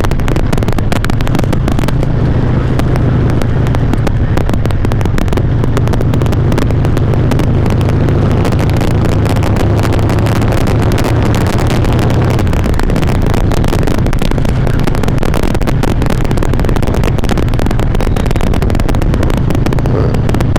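Harley-Davidson V-twin engine running steadily while riding, picked up by a microphone in the helmet's chin. The recording is heavily distorted, with a constant crackle over the engine note: the audio is clipping.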